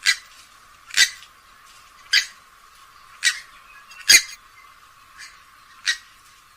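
Grey-headed swamphen giving a series of short, sharp calls, about one a second, the loudest a little after four seconds in.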